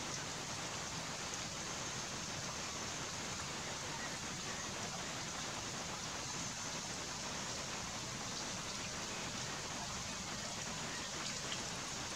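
Steady rain falling on leafy foliage: an even hiss, with a few faint drop ticks near the end.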